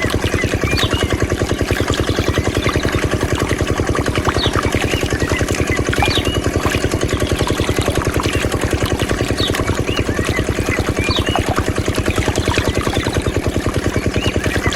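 Small diesel engine running a water pump at steady speed, with a rapid, even chugging that does not change throughout.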